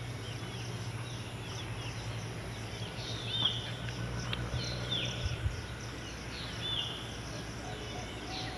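Birds chirping among trees: short, arched high calls repeating every second or two. Under them is a steady low background hum.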